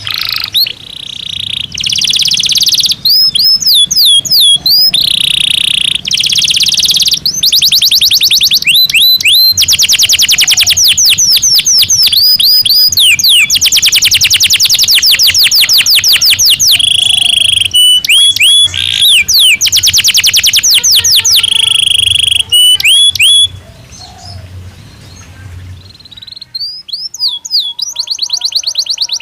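Domestic canary singing: fast trills of rapidly repeated notes, quick rising and falling sweeps and held high whistles. Near the end comes a softer stretch before the loud trilling picks up again.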